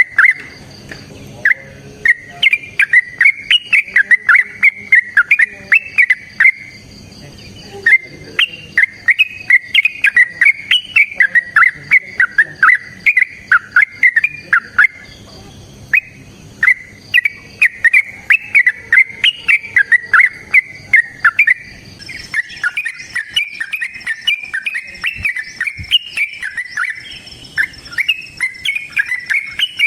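Yellow-vented bulbul (trucukan) singing long, rapid, bubbling phrases of loud chirping notes, broken by a few short pauses. A faint steady high-pitched buzzing runs behind it.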